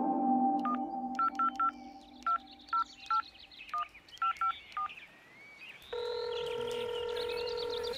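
Touch-tone telephone keypad beeps: about a dozen short two-tone dialing beeps at an uneven pace, then a steady dial-type tone from about six seconds in. Tonal music fades out under the first second.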